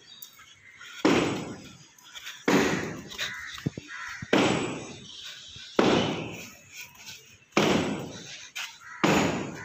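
A bird's harsh, noisy call repeated six times, about once every second and a half, each starting sharply and fading quickly.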